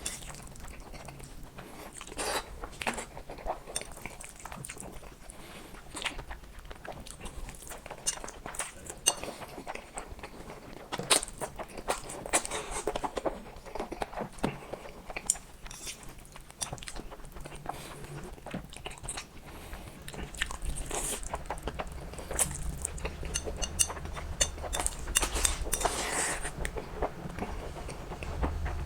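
A person eating black noodles and fried eggs up close: chewing and biting, with many short wet clicks and a few longer mouth noises.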